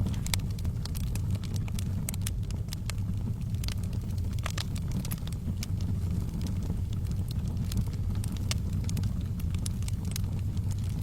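Wood fire burning in a fireplace: a steady low rumble of flames with frequent sharp crackles and pops at irregular intervals, a few louder pops around the middle.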